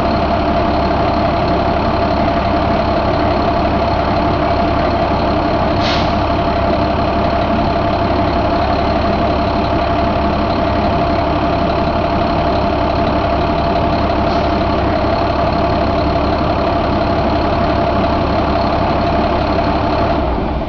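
2012 International MaxxForce DT diesel engine idling steadily, with a steady whine over the running and a single brief tick about six seconds in.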